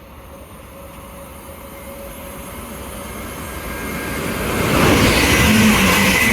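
A Stadler FLIRT train approaching and running through the station, its wheel and running noise building steadily and becoming loud about five seconds in, with a low steady tone sounding near the end.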